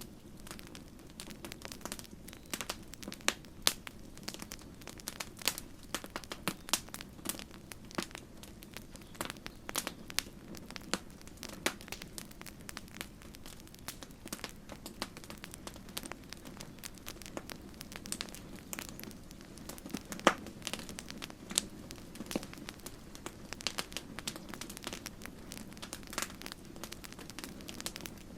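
Wood campfire crackling: irregular sharp pops and snaps, many each second, over a steady low rumble of burning, with one louder pop about twenty seconds in.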